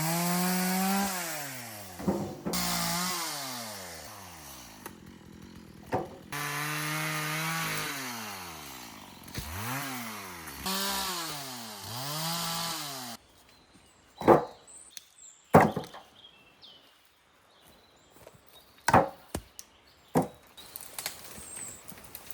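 Chainsaw cutting felled mimosa trunks into firewood: the engine revs up and dips again and again in short cuts, then stops abruptly. After it stops come several sharp, loud knocks of wood.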